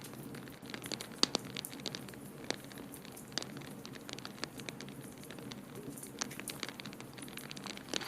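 Wood fire crackling in a fireplace: irregular sharp snaps and pops, a few louder than the rest, over a steady soft hiss.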